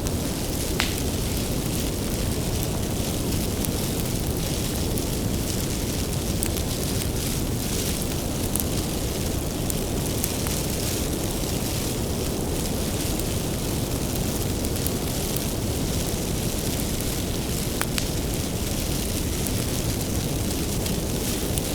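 Wood bonfire burning with a steady low rushing roar, broken by a few sharp crackles and pops of the burning firewood, one about a second in and others scattered later.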